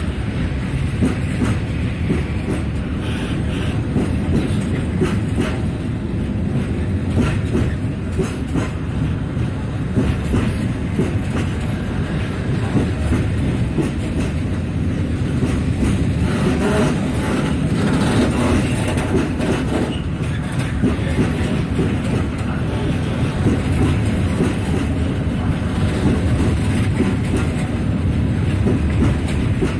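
Freight train of high-sided open gondola wagons rolling steadily past, a continuous rumble with wheels knocking over rail joints.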